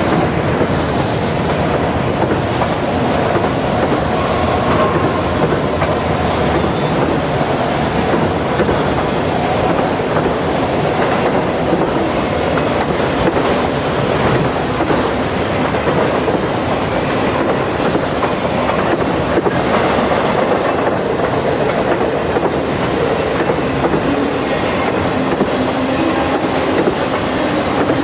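Norfolk Southern freight train's cars rolling steadily past, wheels running on the rails with a continuous clatter and no let-up.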